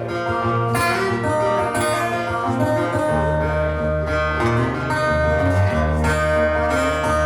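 Live band playing an instrumental blues passage led by guitar, with low bass notes coming in about three seconds in.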